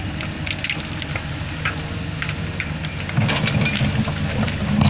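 Excavator's diesel engine running with a low pulsing rumble that grows louder about three seconds in, with scattered sharp clicks and crackles over it.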